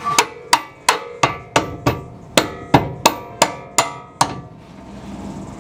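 About a dozen hammer blows on metal, about three a second, each with a brief ring, knocking a rear suspension arm or its bolt into place in the subframe. The blows stop a little after four seconds in.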